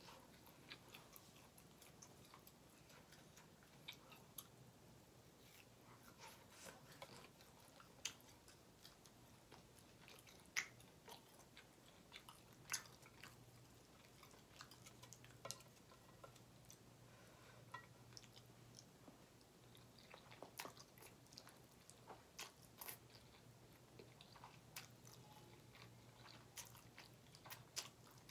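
Close-up mouth sounds of eating grilled chicken and steak kabob: soft chewing with scattered sharp, wet clicks and smacks at an uneven pace, some in quick runs.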